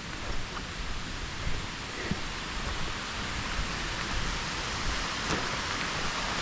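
Water pouring over a spillway: a steady rushing hiss, growing a little louder toward the end.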